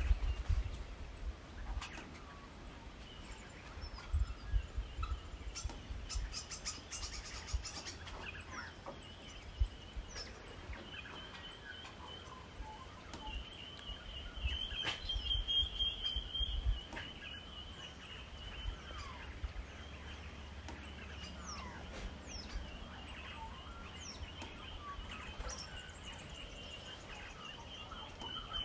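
Birds calling in the bush, with a short high chirp repeated about once a second and scattered sliding calls. A steady high whine joins about halfway through, and low thumps are heard in the first half.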